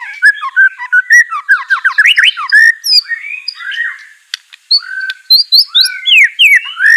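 White-rumped shama (murai batu) in full song: a fast, varied run of whistles, slurred glides and sharp chips, with a brief lull about four seconds in.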